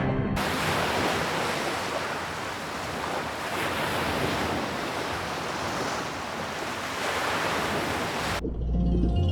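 Steady, even rushing noise of ocean surf. It cuts in just after the start and stops abruptly near the end, where low sustained music comes back in.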